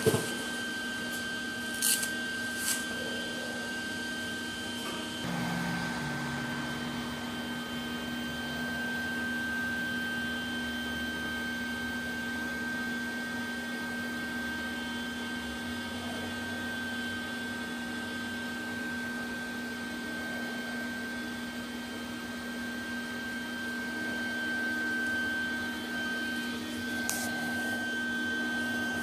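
A steady motor hum, as of a fan or machine running, with a few sharp clicks in the first few seconds and one near the end.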